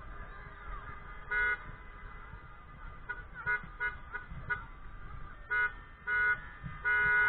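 Car horns honking from a crowd of parked cars, in several short toots, then a longer blast near the end.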